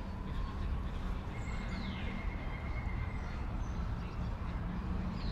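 Outdoor city ambience: a steady low rumble of distant traffic, with a few faint bird calls and thin whistles above it.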